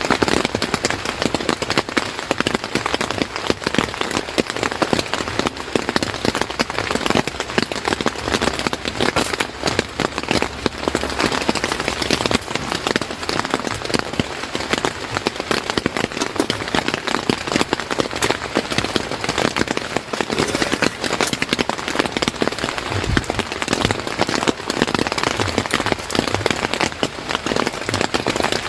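Steady rain falling on a surface, a dense, even patter of countless drops.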